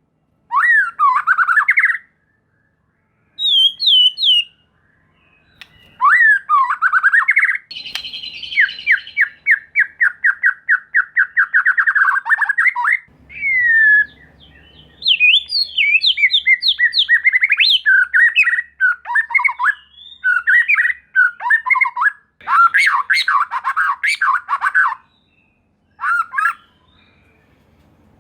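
White-rumped shama (murai batu) singing loud, varied phrases separated by short pauses: sweeping whistles, a long run of fast repeated notes, and harsh rattling notes near the end.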